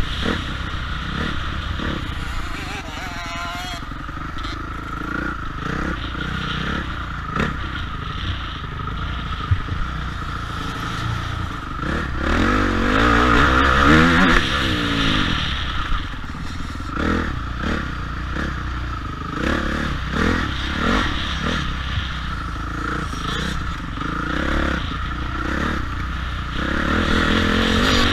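Motocross bike engine running and revving, its pitch rising and falling repeatedly, loudest about halfway through.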